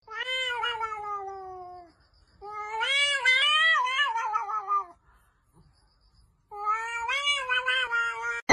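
A cat yowling in three long, drawn-out meows with short pauses between them. The first slides down in pitch, the second wavers up and down, and the third is shorter and wobbles.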